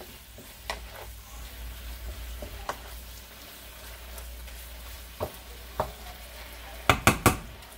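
Bite-sized chicken pieces sizzling as they fry in a hot skillet over medium-high heat, stirred and scraped around with a wooden spatula, with scattered light clicks. About seven seconds in come three sharp knocks in quick succession, the loudest sounds.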